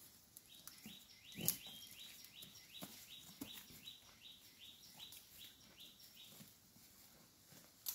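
Faint bird calling a fast series of short, high, sweeping notes, about three a second, that stops about six and a half seconds in. Scattered sharp snaps and rustles sound among the notes, the loudest about a second and a half in and another near the end.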